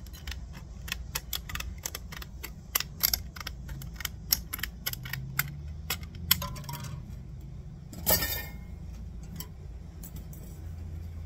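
A thin metal shim being cut down to length: a quick, irregular run of sharp metallic clicks, then a short louder rasp about eight seconds in.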